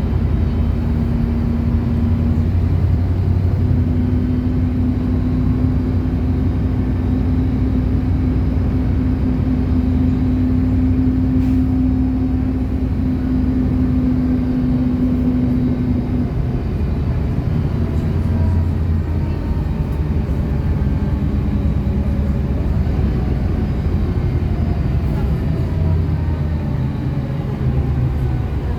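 City bus engine and drivetrain running while the bus drives along, a steady low hum heard from on board. The hum's tone drops away about halfway through, and faint rising whines follow as the bus picks up speed.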